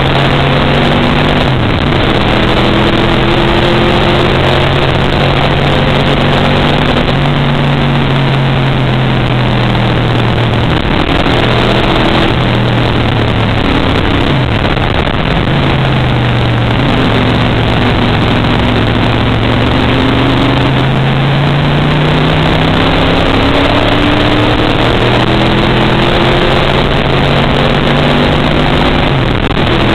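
Race car engine at speed, heard from inside the car: its note climbs steadily under throttle and drops sharply a few times before climbing again.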